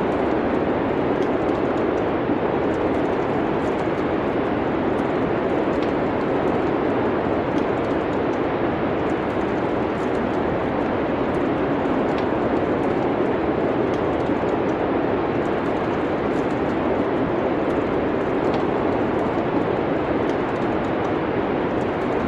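Steady winter wind and snowstorm ambience, an even noise that holds level throughout, with faint sharp crackles of a wood fire scattered through it.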